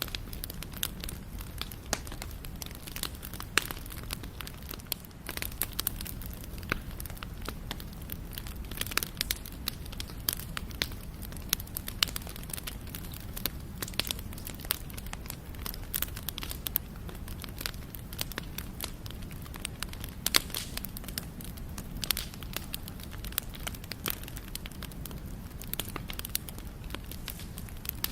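Wood fire burning, with a steady low rumble of the flames and many irregular sharp crackles and pops.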